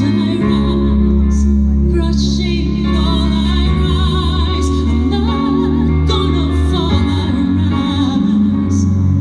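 Female vocalist singing a ballad live, holding long wavering notes with vibrato over a steady instrumental accompaniment.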